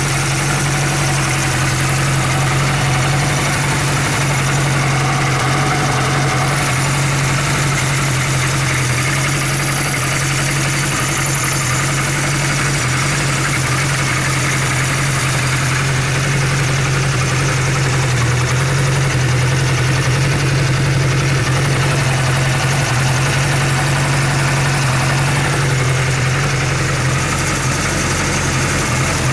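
Kawasaki Z1 (Z900-A4) air-cooled inline-four engine idling steadily, with no change in speed.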